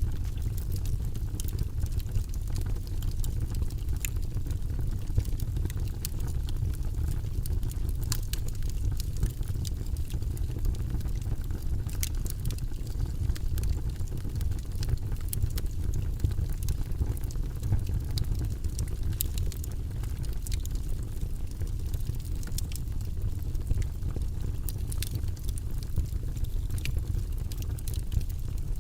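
Wood fire of burning logs in a fireplace crackling, with scattered sharp pops every second or so over a steady low rumble.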